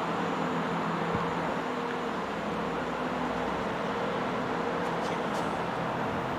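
Train running with a steady rumble and a low, even engine hum underneath.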